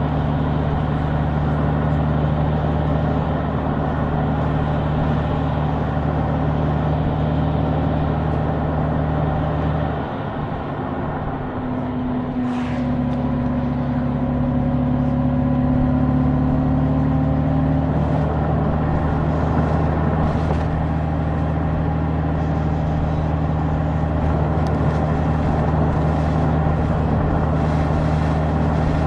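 Honda Gold Wing's flat-six engine running steadily under way, with road and wind noise. About ten seconds in the engine note briefly drops away, then comes back with an added higher tone that rises slightly for several seconds as the bike picks up again.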